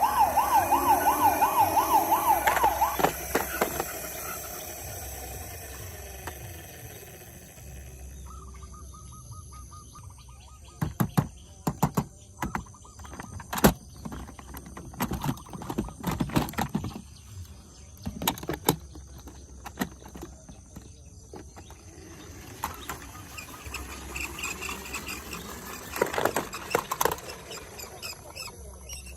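A toy emergency-vehicle siren warbling fast and loud for about three seconds, then fading. Later, scattered sharp clicks and knocks.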